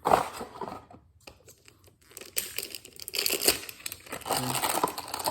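Packaging of a new oil filter being torn and crinkled: a sharp rip at the start, then a few seconds of irregular rustling and crinkling.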